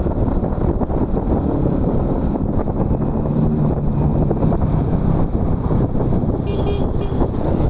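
Motorcycle engine running while riding, with wind buffeting the microphone. A brief high chirping sound comes near the end.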